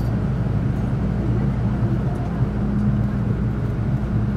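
Steady low hum inside a Metro Cammell M-Train electric multiple unit carriage, with a few level tones and no rise or fall in pitch, as the train stands or barely moves at a station.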